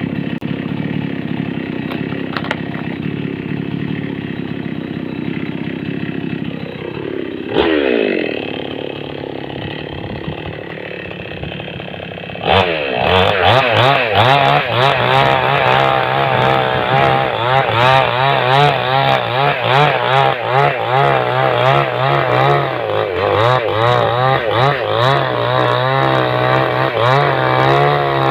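Small chainsaw running steadily, then briefly revving and dropping back about 8 s in. From about 12 s in it runs loud at full throttle cutting into a driftwood log, its pitch wavering under load, with rapid rattling clicks from the chain.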